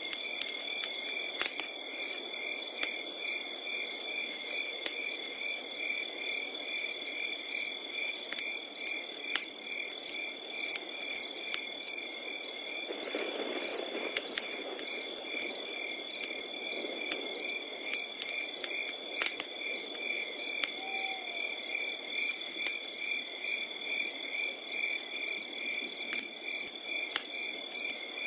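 Wood campfire crackling, with scattered sharp pops and a low hiss of burning that swells briefly about halfway through, under crickets chirping in a steady, evenly pulsing chorus.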